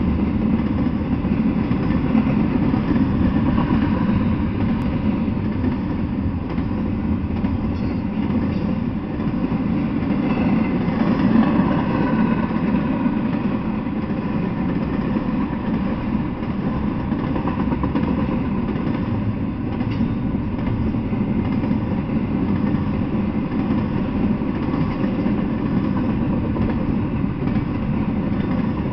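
Double-stack intermodal freight train rolling steadily past, the wheels of its container cars running on the rails.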